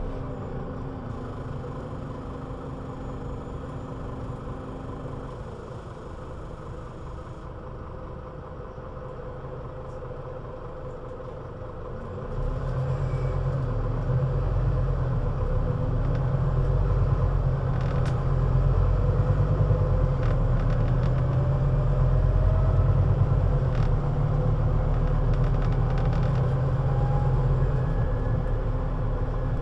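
Scania Citywide LFA three-axle bus engine running quietly at low revs. About twelve seconds in it jumps in level and runs under load, with a heavy low rumble and a faint gliding whine as the bus drives on.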